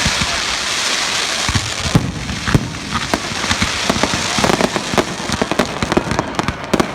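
Fireworks going off: a steady fizzing hiss laced with sharp cracks and pops, which come thicker and faster over the last couple of seconds into a rapid crackle.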